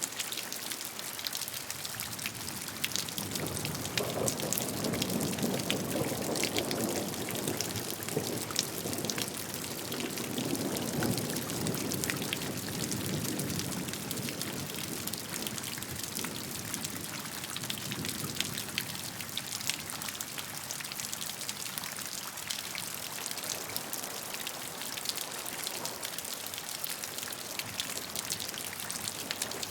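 Steady rainfall, many separate drops spattering on a surface, with a deeper rush of water that swells for several seconds in the first half and fades.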